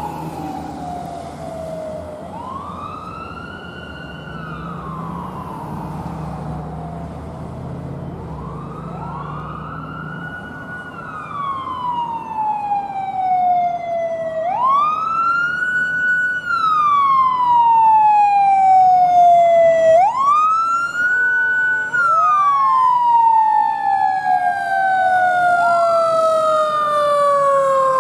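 Fire apparatus sirens wailing in slow cycles, each rising quickly, holding briefly at the top, then falling slowly. The sound grows louder past the halfway point, and near the end two sirens overlap. An engine rumbles low beneath the first part.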